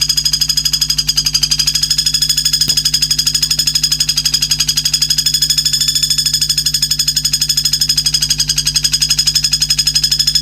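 A songbird's high, rapid trill, pulsing evenly about a dozen times a second at one steady pitch without a break, over a faint steady hum.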